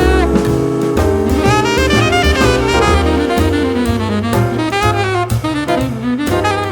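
Jazz band's instrumental break: a saxophone playing a quick, moving solo line over bass and drum kit.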